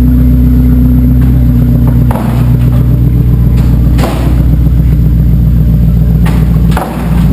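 Jeep Grand Cherokee WJ's 4.7-litre High Output V8 running through a 3-inch side-exit exhaust with a Borla XR-1 muffler: a loud, steady, deep drone, with brief dips in level about two seconds, four seconds and near seven seconds in.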